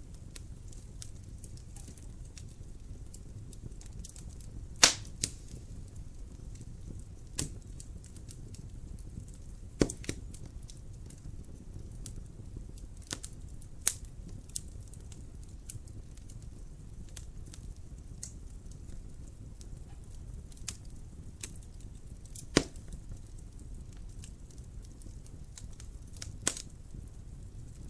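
Wood fire burning in a fireplace: a low steady rustle with frequent small crackles and a few sharp, loud pops from the burning logs.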